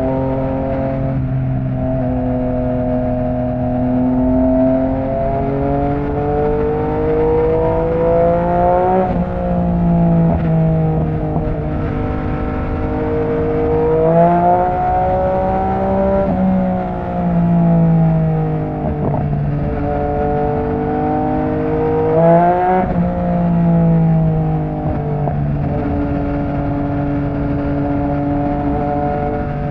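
Yamaha MT-09's three-cylinder engine through an opened-up Akrapovic exhaust, under way on the road: the engine note rises and falls smoothly with the throttle, with several sudden jumps in pitch as gears are changed.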